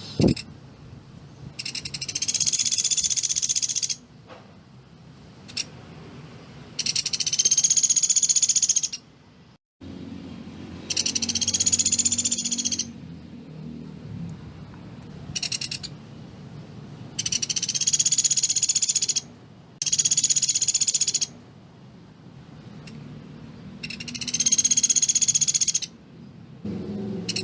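Velvet-fronted nuthatch (pelatuk beras) giving loud, tight rattling trills of rapid high notes. Each trill lasts about two seconds, and they repeat every few seconds.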